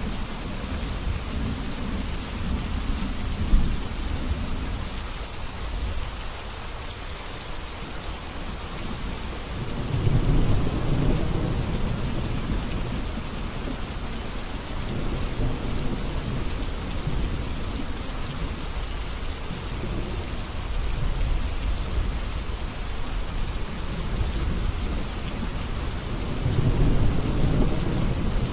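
Steady rain falling, with rolls of thunder rumbling low: a strong swell about ten seconds in, weaker ones in the middle, and another near the end.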